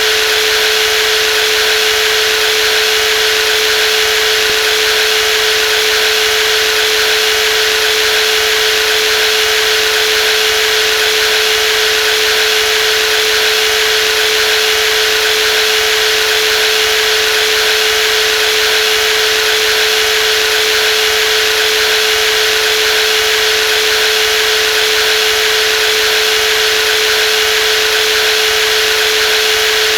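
Brushless jigsaw running steadily, a constant whirring hiss with one steady mid-pitched hum that never changes in level or pitch.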